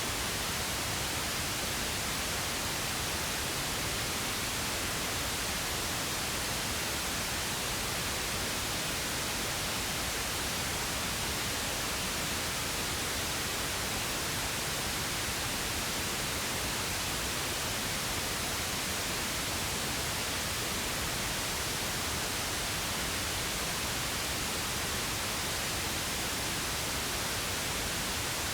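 Steady pink noise: an even, unchanging hiss with equal energy per octave.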